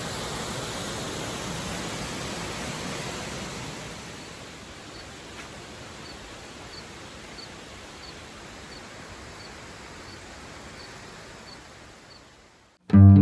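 Waterfall's steady rush of falling water; it drops in level about four seconds in and fades out near the end. A faint high chirp repeats about twice a second through the middle. Guitar music starts abruptly at the very end.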